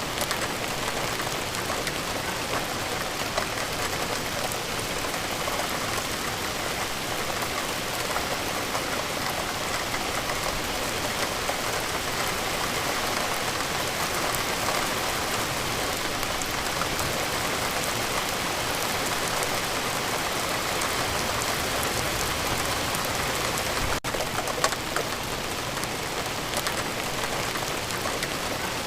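Steady, heavy rain falling, with a dense hiss and many individual drops heard as fine ticks.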